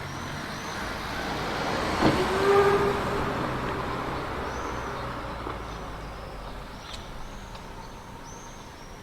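A vehicle passing by: a rush of noise swells and then fades, with a sharp clank about two seconds in and a brief squeal just after. Small birds chirp repeatedly.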